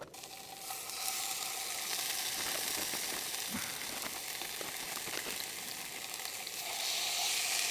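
Kokanee salmon frying in hot oil in a pan with vegetables: a steady sizzle that picks up about a second in and grows a little louder near the end.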